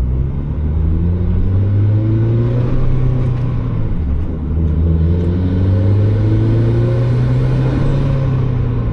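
Turbocharged Mazda Miata's four-cylinder engine accelerating through the gears. The revs climb for about four seconds, dip at a gear change, then climb again and fall near the end.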